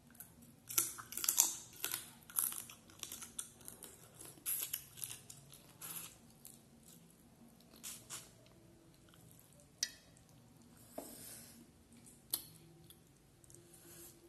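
A person chewing a mouthful of rice and curry eaten by hand, close to the microphone: dense wet clicks and crackles for the first several seconds, then sparser single clicks.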